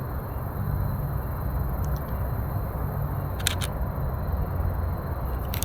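Mirrorless camera shutter (Canon EOS RP) clicking twice, about three and a half seconds in and again near the end, each a quick double click, over a steady low rumble.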